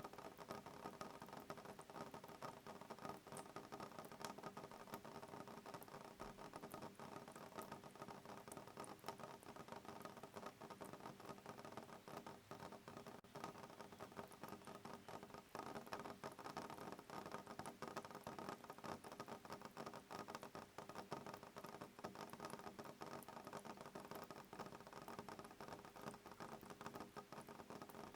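Soft rain on a window pane: a faint, even patter of many small drops.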